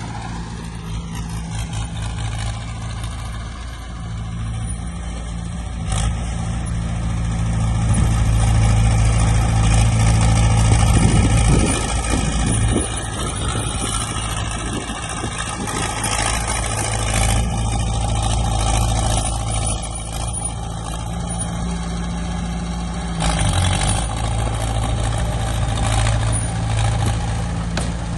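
The diesel engine of heavy earthmoving machinery runs steadily. It grows louder for a few seconds around the middle, and its note shifts near the end.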